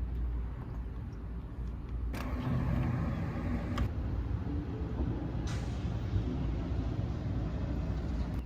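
Low, steady rumble of a motor vehicle. A sharp knock comes about two seconds in, followed by a pitched engine note, with more knocks a few seconds later.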